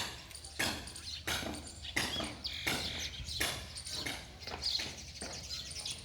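Footsteps walking at a steady pace, about one and a half steps a second, with faint bird chirps in the background.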